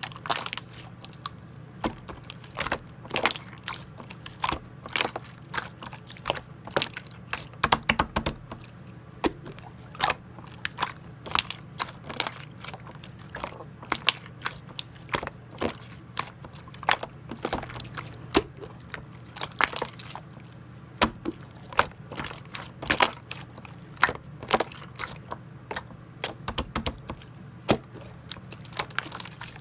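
Clear yellow slime being squished and pressed by hand, making many irregular sharp clicks and pops, with a steady low hum underneath.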